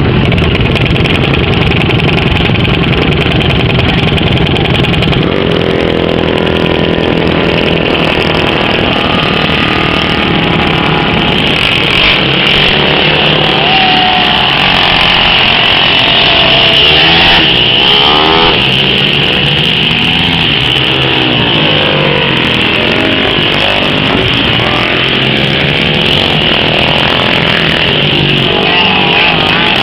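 Several racing engines running at speed on a speedway oval during hot laps, a continuous loud drone whose pitch rises and falls as the cars come past, most clearly in the middle of the stretch and again near the end.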